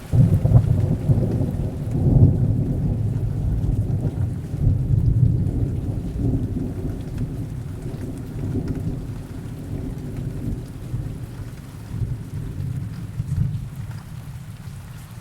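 A long roll of thunder that breaks in suddenly and rumbles on with several swells, fading toward the end, over steady heavy rain.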